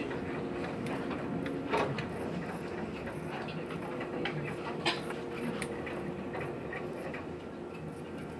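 Running noise heard inside a passenger train carriage moving slowly: a steady hum with scattered light clicks and knocks, the loudest about two and five seconds in.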